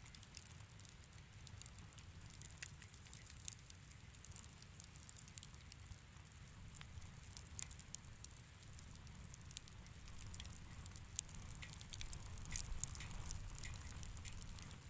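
Wood fire crackling in a fireplace: scattered sharp pops and snaps over a low, steady rumble, the crackles coming thicker for a few seconds near the end.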